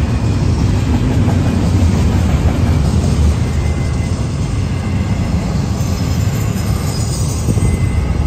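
Union Pacific double-stack intermodal freight train passing at speed: a loud, steady rumble of steel wheels on rail with rapid clatter from the cars.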